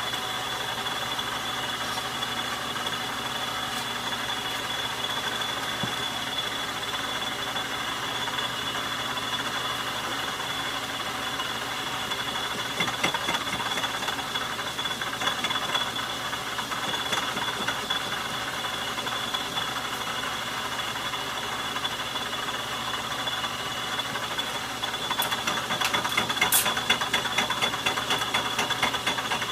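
Logan metal lathe running while turning a metal nut: a steady high whine over a continuous rattle of the drive and cut. The rattle grows louder and more rapid near the end.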